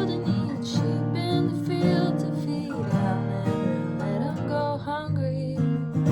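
Song accompanied by strummed acoustic guitar, with a melody line above it that glides and wavers in pitch.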